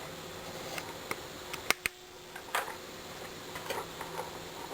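Two sharp clicks in quick succession a little under two seconds in, over a faint steady hum and hiss.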